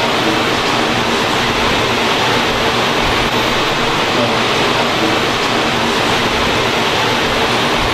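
Steady, loud machinery noise of a filter production line: a dense, even roar with faint humming tones and no pauses.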